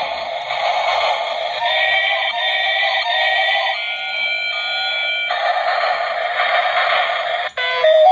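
Tinny electronic melody from a battery-powered toy train's small built-in speaker, thin with no bass and a hiss underneath. It breaks off briefly near the end.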